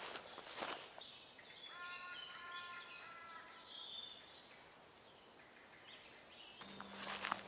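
Woodland songbird singing a phrase of quick, high notes lasting a few seconds, then a second brief high call, over a quiet woodland background. A few crunching steps on leaf litter come right at the start.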